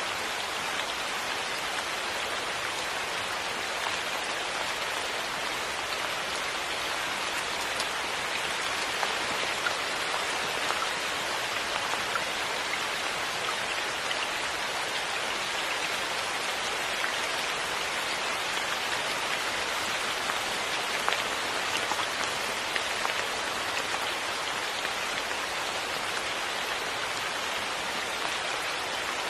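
Steady rain falling on a surface, an even hiss with small drop ticks scattered through it.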